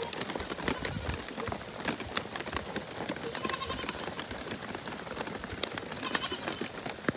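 Sheep or goats bleating twice in short quavering calls, the second louder, over a steady patter of rain.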